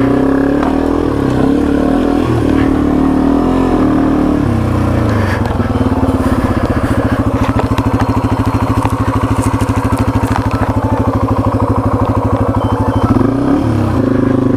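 Yamaha TW200's single-cylinder four-stroke engine running under way. Its note drops about four seconds in and then holds steady at a low, evenly pulsing note; near the end it dips and climbs again.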